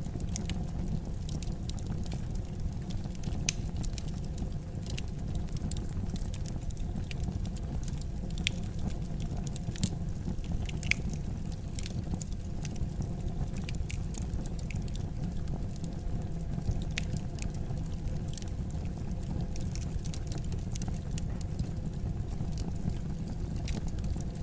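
Fire burning in a fireplace: a steady low rumble of flames with irregular sharp crackles and pops throughout.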